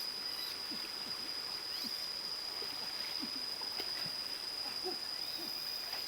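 Rainforest ambience: a steady high-pitched insect drone with many short, low animal calls scattered through it.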